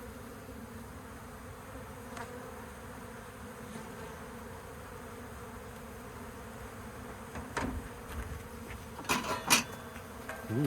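Honey bee colony buzzing steadily around its hive entrance. A dull thump comes about three quarters of the way through, followed near the end by a few sharp clicks, the loudest sounds.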